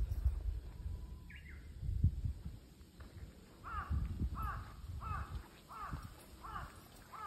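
A bird giving a steady series of repeated calls, about seven in a row at under a second apart, starting about halfway through, after a single higher call earlier on. Low bumps of footsteps and phone handling run underneath.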